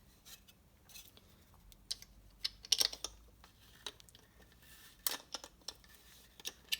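Metal piston ring compressor being loosened and handled: a scatter of sharp metallic clicks and clinks, with the loudest cluster about three seconds in.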